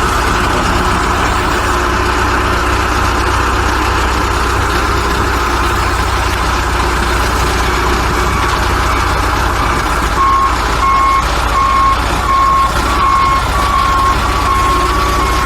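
Diesel engine of heavy equipment running steadily, joined about two-thirds of the way through by a backup alarm beeping about twice a second as the machine reverses.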